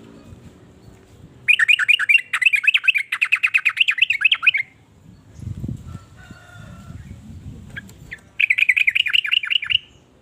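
Yellow-vented bulbul (trucukan) giving a rapid, bubbling chatter of repeated notes in two bouts: a longer one of about three seconds, then a shorter one near the end.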